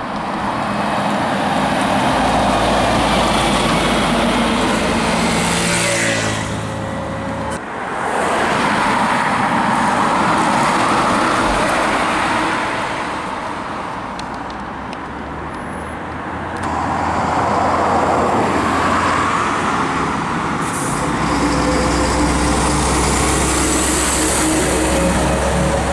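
Heavy trucks driving past one after another, each diesel engine and its tyres swelling up and fading as it goes by. Around six seconds in, one engine's note drops.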